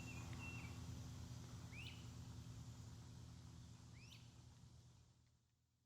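Faint outdoor background with a small bird giving short chirps, about one every two seconds, and a brief whistled note at the start; the low background hum fades out near the end.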